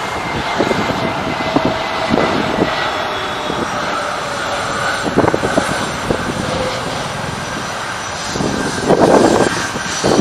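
Airliner engines droning steadily as the plane passes, with a tone that slowly falls in pitch. The noise swells briefly near the end.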